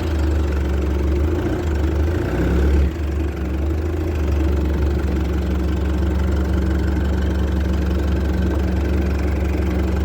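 Isuzu MU-X diesel engine idling, a little uneven in the first few seconds, then steady. It is running again after failing to start the day before.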